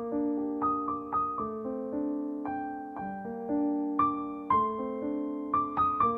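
Gentle background piano music: a slow melody of single struck notes that ring and fade over sustained lower notes.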